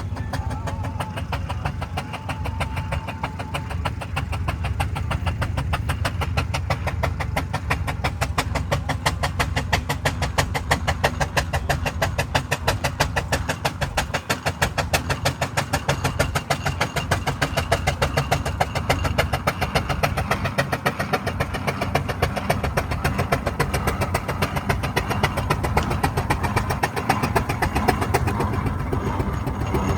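Burrell steam engine running with a rapid, even beat that holds steady throughout.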